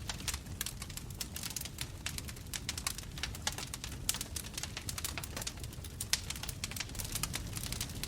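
Bonfire crackling: a dense, irregular run of sharp snaps and pops, a few louder than the rest, over a steady low rumble of the flames.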